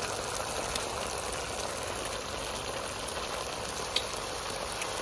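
Sliced onions, cashews and dried red chillies frying in oil in a wide metal pan: a steady sizzle, with one faint tick about four seconds in.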